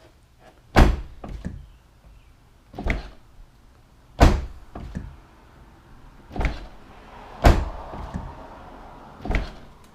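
C6 Corvette door opened with its electronic exterior release switch and shut again several times, giving about six sharp latch knocks and door thuds. The freshly cleaned switch releases the door smoothly each time.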